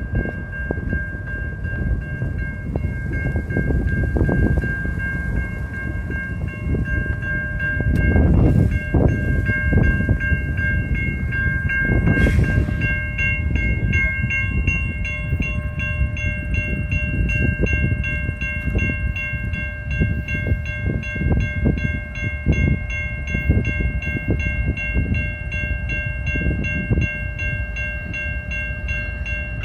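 CN freight train rolling past, with a steady low rumble and irregular clicking of wheels over the rail joints. Steady high ringing tones run throughout and get stronger from about halfway.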